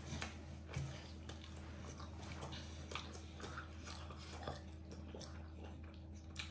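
People chewing mouthfuls of homemade pizza: faint, with many small irregular clicks over a low steady hum.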